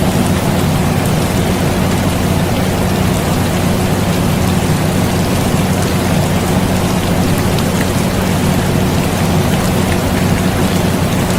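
Steady rain hiss mixed with the constant low hum of an air conditioner, unchanging throughout.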